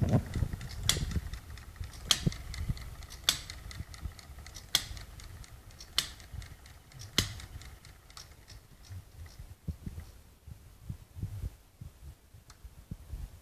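Hit-and-miss model engine running, with a sharp crack roughly every second and a bit over a low rumble. The sharp cracks stop about seven seconds in, leaving fainter, irregular clicking.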